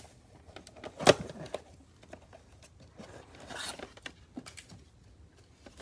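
Cardboard trading-card hanger boxes being handled and opened, with soft scraping and rustling as the small inner boxes are pulled out, and one sharp tap about a second in.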